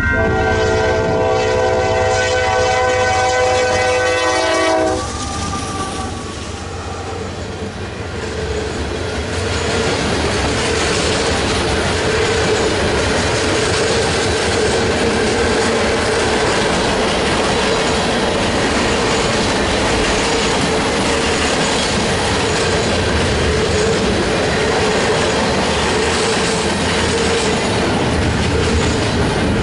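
Union Pacific freight train's horn sounding a steady chord as the locomotive nears the grade crossing, cutting off sharply about five seconds in. The train then reaches the crossing and its cars roll past close by, wheels clacking over the rail joints in a steady rumble with a steady tone running through it.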